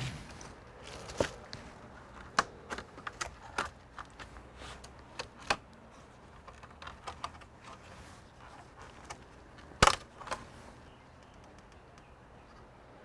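Irregular clicks and taps of small hard parts being handled while a computer is worked on, with one sharper knock about ten seconds in.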